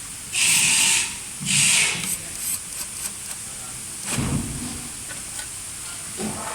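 Two short, loud hissing bursts, each about half a second long, in the first two seconds, followed by a dull knock about four seconds in.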